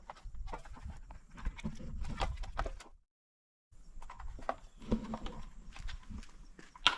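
Irregular clicks, knocks and rattles of hand tools and parts being handled while the engine cover is taken off a Craftsman snowblower, with one sharp click near the end. The sound cuts out completely for under a second about three seconds in.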